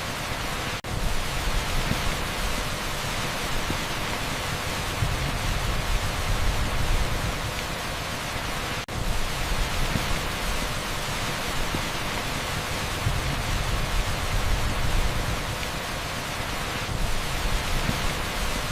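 Heavy rain pouring onto an asphalt street, a dense steady hiss that fills the whole range, like pink noise. Twice, about a second in and again near nine seconds, it drops out for an instant.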